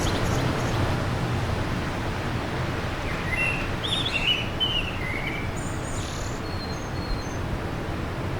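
Steady wind noise, with a cluster of short bird chirps and calls from about three to seven seconds in.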